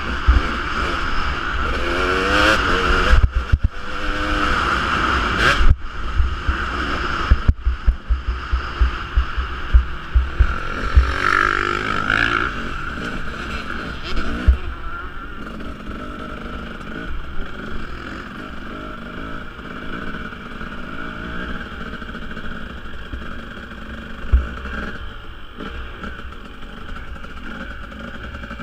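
Husqvarna 250 two-stroke motocross motorcycle engine revving up and down in the first few seconds, with irregular low thumps through the first half. It then settles into a steadier, somewhat quieter run.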